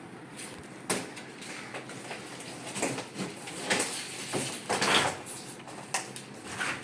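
Irregular knocks, clicks and scraping or rustling noises, loudest about four to five seconds in.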